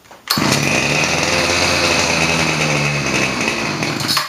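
Ryobi small gas engine catching and running with the throttle held for about four seconds, then cutting out suddenly as it runs out of gas.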